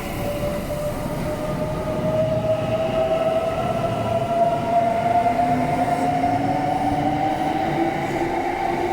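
Kintetsu Nara Line electric train pulling away, its traction motors whining in several tones that rise slowly and steadily in pitch as it gathers speed, over the rumble of the running gear.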